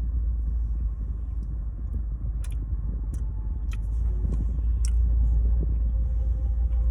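Steady low rumble inside a parked car's cabin, with a few faint sharp clicks in the middle.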